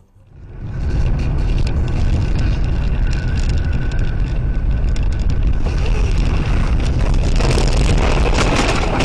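Loud steady rumble of a car on the move, road and engine noise, coming in about a second in.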